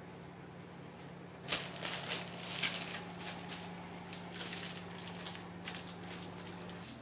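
Paper bread bag crinkling and rustling as a baguette is picked up and handled, in irregular quick rasps starting about a second and a half in and fading off near the end, over a low steady hum.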